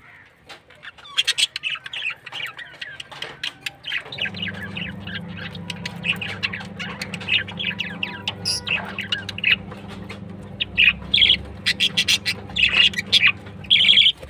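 Several small birds chirping and chattering in quick, overlapping calls, over a steady low hum that starts about four seconds in.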